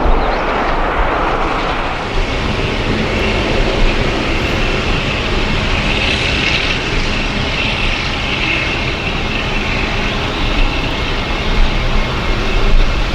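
Jet airliner's engines running, a loud steady rush of noise with a high whine that swells in the middle and then eases.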